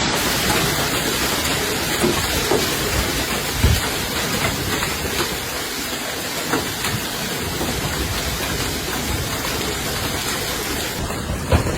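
Severe hailstorm: a steady roar of pouring rain and wind, with scattered sharp knocks of hailstones striking.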